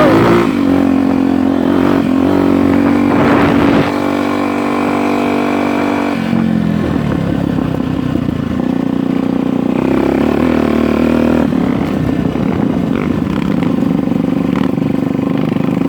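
Off-road motorcycle engine running under changing throttle. Its pitch shifts several times, notably about four and six seconds in, with rough scraping and clatter over it.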